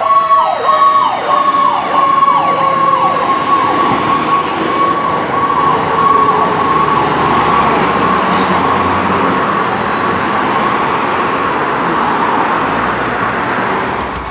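Fire truck sirens wailing as the truck responds: a fast repeating falling sweep and a second tone slowly sliding down in pitch for the first few seconds, then a steady siren tone over rising engine and road noise as the truck passes.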